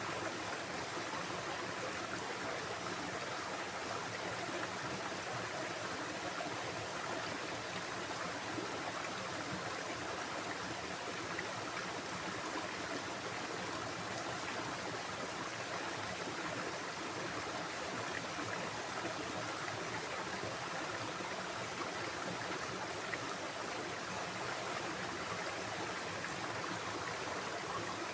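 A stream of running water flowing steadily, an even rush with no breaks or changes.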